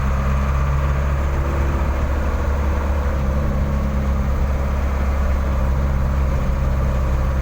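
Truck engine running steadily with a deep, even hum.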